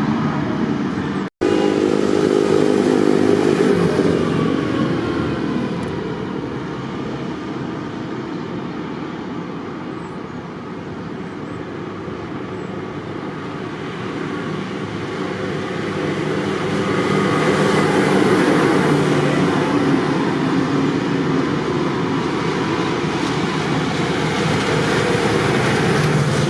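Tractor engines running as tractors pass by, louder near the start and again later on, with a brief complete cutout in the sound just over a second in.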